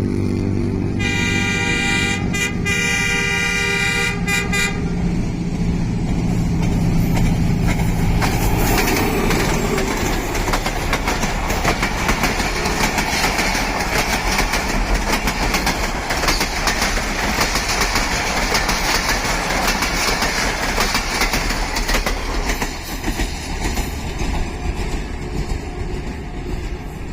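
Passenger train passing: the locomotive's horn sounds for about four seconds with two short breaks over the engine's hum, then the coaches clatter by with a rapid clickety-clack of wheels over rail joints that fades near the end.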